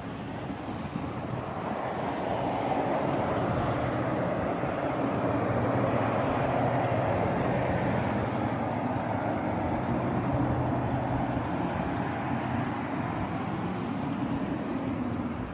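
A motorboat's engines running as it passes, with a steady low hum and a rushing wash of water. It grows louder over the first few seconds and eases off toward the end.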